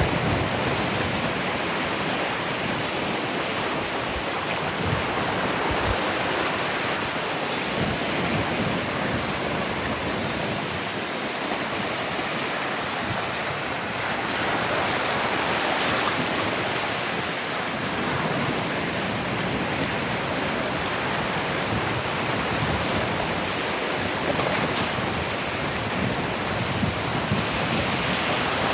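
Ocean waves breaking and washing up a sandy beach: a steady rushing of surf that swells a little louder about halfway through and again near the end.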